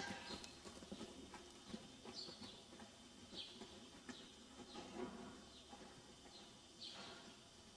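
Faint, short high chirps of small birds, each falling in pitch, scattered about once a second, over the soft, faint footfalls of a yearling horse walking on arena dirt.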